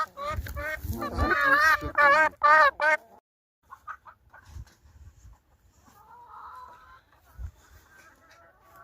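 Chickens calling: a quick run of loud, short calls over about the first three seconds, then faint scattered calls and light clicks.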